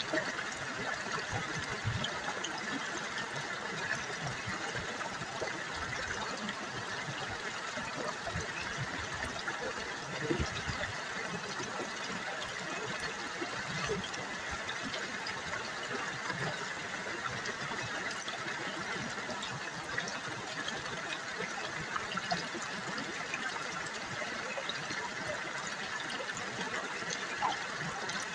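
River water babbling and trickling over rocks, a steady dense splashing with small drips and gurgles.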